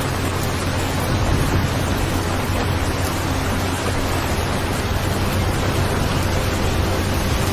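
Steady heavy rain, a dense even wash of noise with no drops or thunder standing out.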